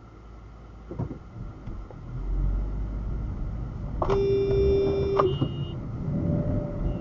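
A car horn honks once for a little over a second, about four seconds in, over the low rumble of a car on the road. There is a short knock about a second in.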